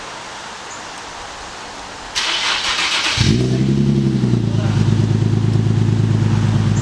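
Infiniti G37's V6 being started: the starter cranks for about a second, the engine catches about three seconds in with a short rising flare of revs, then drops into a steady idle. It runs through a freshly modified exhaust with a resonator-style muffler welded into the mid pipe.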